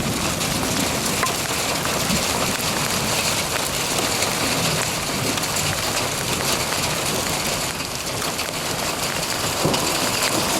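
Heavy rain pouring steadily, with many small sharp ticks of impacts scattered through it.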